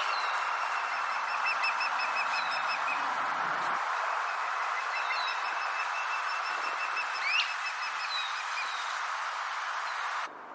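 Osprey calling: two runs of rapid, high whistled chirps over a steady hiss, growing louder and quieter as the bird turns its head and echoing around the valley. The sound cuts off just before the end.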